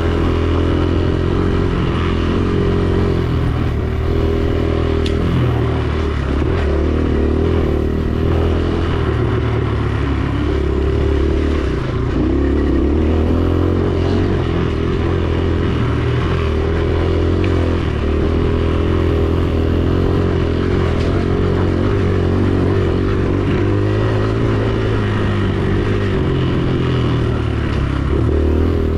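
Dirt bike engine running as the bike is ridden, its pitch rising and falling continuously with throttle changes.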